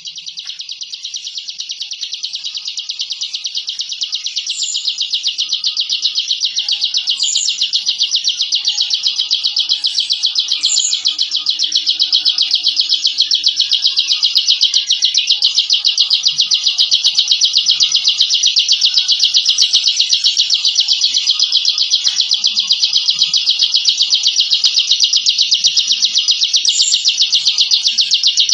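A ciblek (a prinia) giving its 'ngebren' song: one unbroken, very rapid buzzing trill, long and tightly packed, that slowly grows louder over the first half. A few short, higher chips stand out above it now and then.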